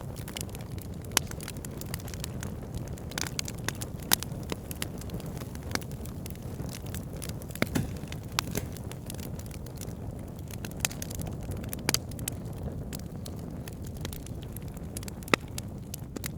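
Wood fire burning with a steady low rumble, its logs crackling with irregular sharp pops, a few of them loud.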